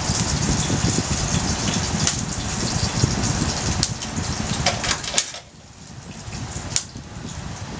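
Wood fire of slightly damp sticks burning in a portable fire stand, crackling and hissing with scattered sharp pops, under a low rumble. The rumble and hiss drop away about five seconds in, and a louder pop follows a moment later.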